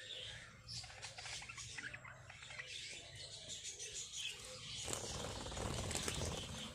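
Budgerigars chattering in many quick, high chirps. A louder rustling noise comes in about five seconds in and lasts over a second.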